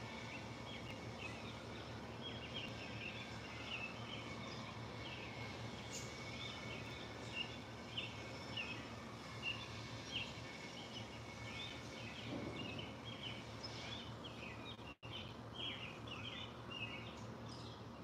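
Small birds chirping in quick short notes, over and over, against a steady low hum. The sound cuts out for an instant about fifteen seconds in.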